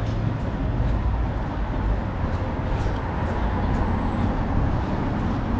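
Car driving on a city road: a steady low rumble of engine and tyres, with faint light clicks about twice a second.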